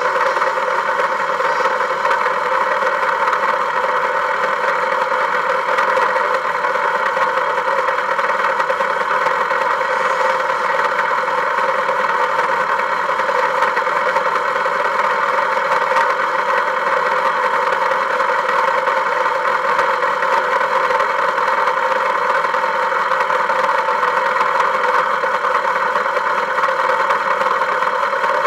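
Volkswagen vehicle's engine running at a steady, unchanging speed.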